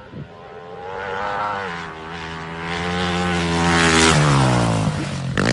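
Motorcycle engine running and getting louder, its pitch climbing to a peak about four seconds in and then falling away as it passes by. Near the end the pitch sweeps down sharply before settling into a steady engine note.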